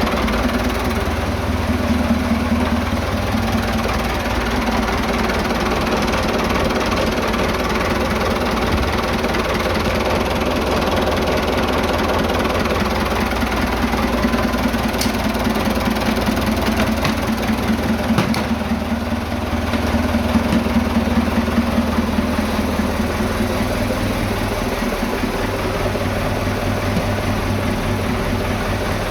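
Vintage diesel tractor engine running steadily at idle, its speed and level shifting slightly now and then, with a few sharp clicks around the middle.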